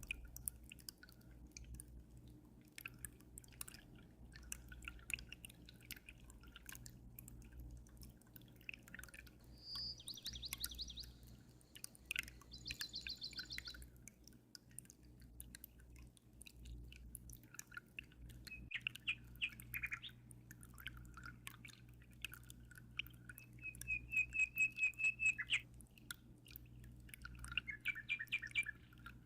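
Small songbirds chirping in several short, rapid trills, the loudest a few seconds before the end, over scattered water drips and a low steady hum.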